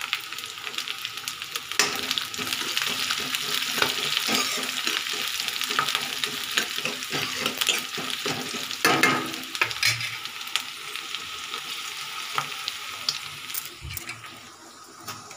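Green peas frying with chopped onions and garlic-ginger paste in hot oil in a kadhai, sizzling steadily while a spatula stirs them, scraping and knocking against the pan. The sizzling is quieter near the end.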